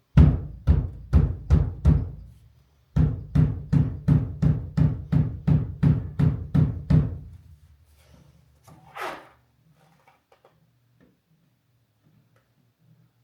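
Rapid series of thumps, two to three a second, in two runs: about five, a short pause, then about a dozen more. They come from striking the rear window and its rubber seal to seat them in the car's opening.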